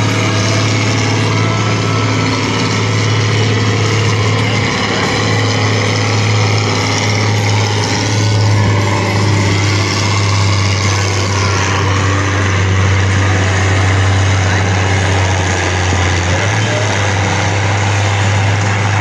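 International farm tractor's engine running steadily under heavy load as it pulls a weight-transfer sled, a constant deep drone.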